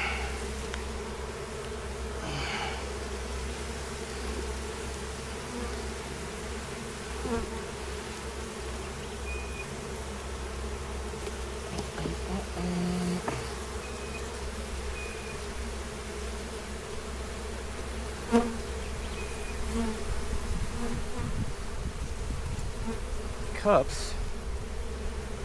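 Honey bees buzzing steadily around an open hive, with a sharp knock past the middle and another near the end.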